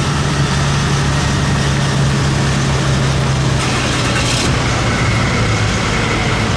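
Heavy pulling-vehicle engine running steadily at a low, even pitch that drops a little about three seconds in, with a brief hiss lasting about a second near the middle.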